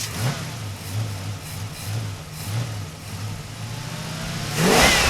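A vehicle engine running with a steady, pulsing low hum, then passing by loudly near the end, its pitch rising and then dropping away.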